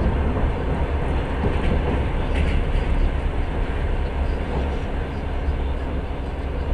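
Passenger train running along the line, heard from aboard a carriage: a steady, heavy rumble of wheels on rails.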